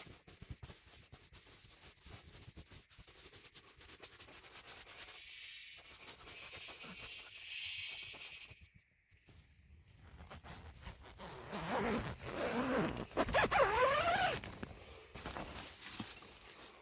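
Tent door zipper drawn open in several pulls, with nylon fabric rustling. It is soft at first and louder in the second half, where the zip sounds in quick rising sweeps.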